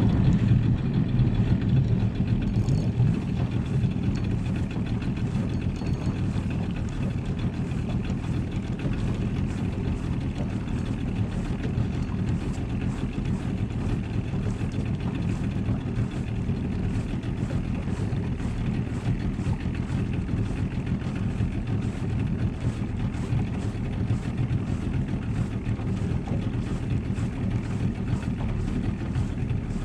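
A boat's motor running steadily under way, a low even drone with wind and water noise over it.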